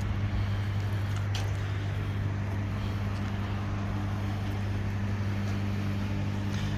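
A steady, even motor hum with a low drone, unchanging throughout.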